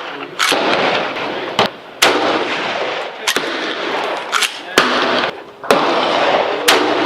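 Several rifles firing on a shooting range: about eight shots in seven seconds at uneven intervals, each followed by a long echo.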